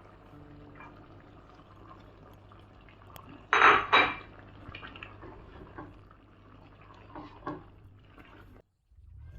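Utensil clanking against a cooking pot: two loud clanks close together about three and a half seconds in, then lighter clinks and scrapes.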